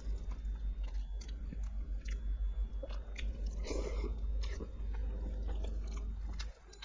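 Close-miked chewing of food, with many wet mouth clicks and smacks and a louder bite a little past the middle; the chewing eases off near the end.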